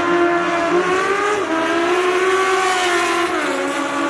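Drag-racing car's engine held at high revs, its pitch holding high then dropping about three seconds in, as on a shift or lift-off.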